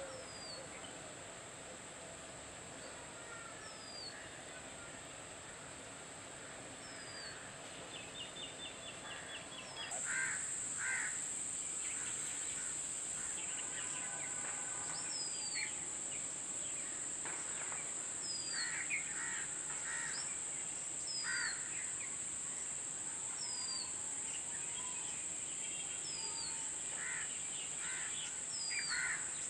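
Wild birds calling: a short, high, falling whistle note repeated every second or two, among harsher chirps and calls. Underneath is a steady high-pitched hiss that gets louder about a third of the way in.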